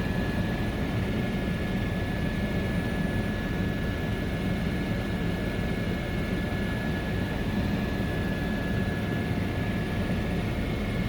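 Helicopter in flight: steady rotor and engine noise with a rapid low flutter and a steady high whine over it.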